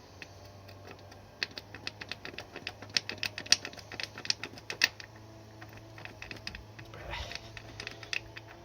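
Socket ratchet clicking in quick, irregular runs as a fastener is worked on a motorcycle engine, with a short scrape about seven seconds in.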